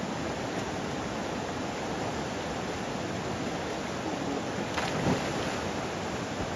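Steady rushing noise of river water and heavy rain, with a single brief knock about five seconds in.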